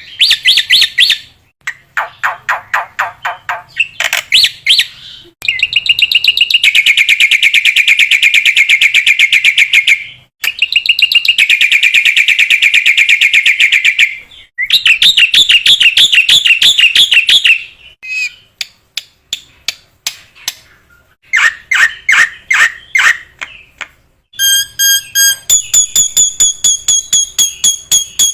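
Black-winged myna (jalak putih) singing in loud bouts: rapid trills and long, fast rattling trills, broken by short pauses, then clear held whistled notes near the end.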